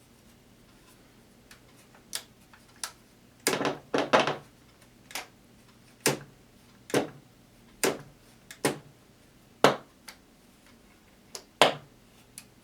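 Hands working a cassette boombox: about a dozen sharp clicks and knocks at uneven intervals, the loudest a quick cluster about four seconds in, over a faint steady hum.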